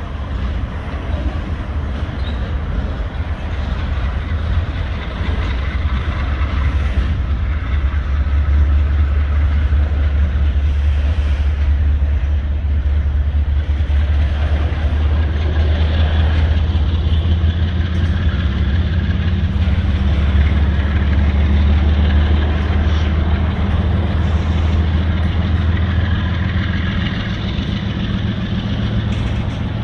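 EMD diesel-electric locomotives running, a steady low engine drone that grows louder after a few seconds and eases a little near the end.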